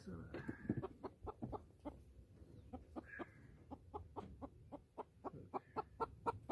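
Hens clucking in a steady run of short clucks, several a second, with a couple of longer drawn-out calls mixed in.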